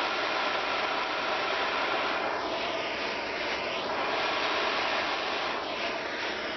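Handheld propane torch flame hissing steadily while heating the tinned steel patch-panel seam. The hiss shifts in tone a couple of times as the flame is moved along the metal.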